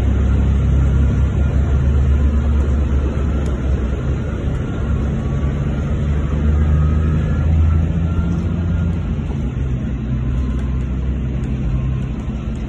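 Loud, steady low rumble of a vehicle in motion.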